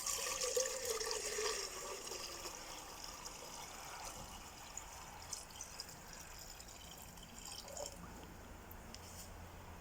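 Water pouring and trickling, loudest over the first two seconds, then thinning to faint drips.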